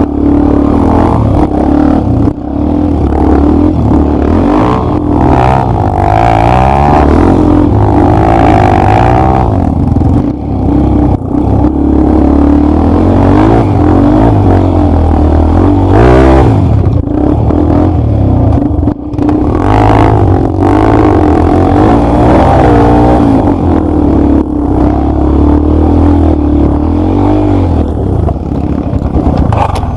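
Off-road motorcycle engine running loud, its pitch rising and falling as the throttle is worked while riding a trail.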